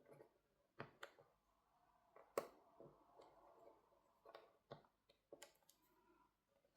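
Faint, scattered small clicks and taps of a precision screwdriver and plastic covers and screws being handled while the Motorola Moto G60's internal covers are screwed back in place, with one sharper click about two and a half seconds in.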